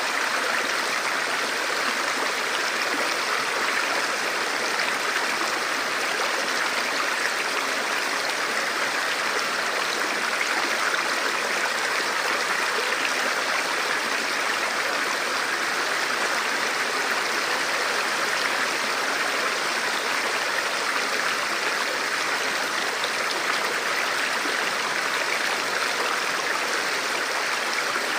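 Forest river or stream flowing steadily over rocks: a constant rushing and babbling of water.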